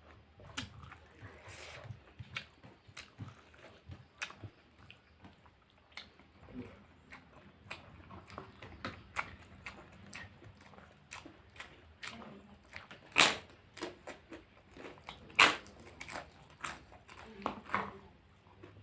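Close-up mukbang eating sounds: a person chewing pork curry, with many small wet mouth clicks and smacks and two louder sharp bites a little past halfway, about two seconds apart.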